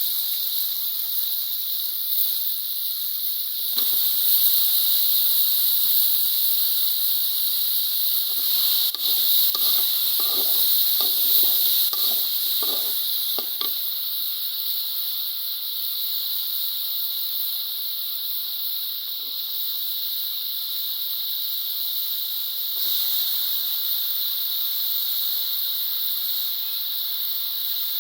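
Food sizzling and frying in a hot pan, a steady hiss throughout, with a run of short, irregular strokes in the middle third.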